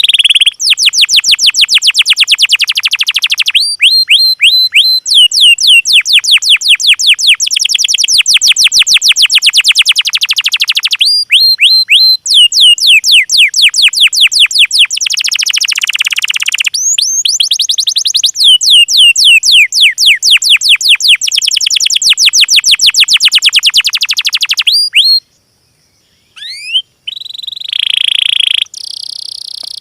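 Small songbird singing long, rapid trills of high, downward-sweeping notes, phrase after phrase with short breaks between them, and a brief silence shortly before the end.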